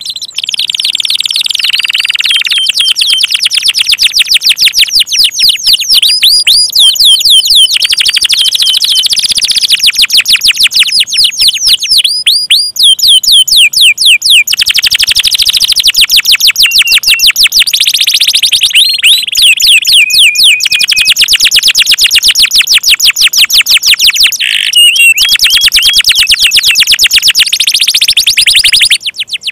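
Domestic canary singing continuously in fast trills and rapid strings of high repeated chirps, broken by a few very short pauses.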